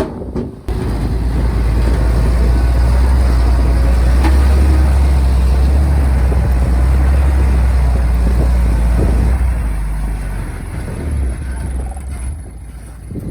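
Heavy diesel earthmoving machinery running hard with a deep, steady rumble that rises about a second in and eases off near the end.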